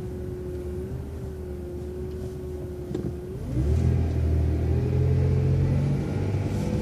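City transit bus engine idling with a steady whine. About three and a half seconds in, the bus pulls away: the engine rumble grows louder and the whine rises in pitch as it accelerates.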